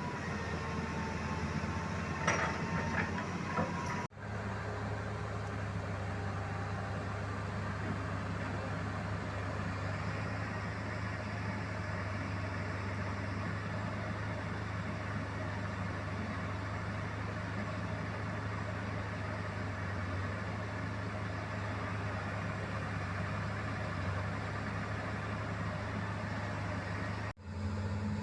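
Heavy machine's engine running steadily at an even low pitch, broken by two sudden cut-outs, about four seconds in and a second before the end.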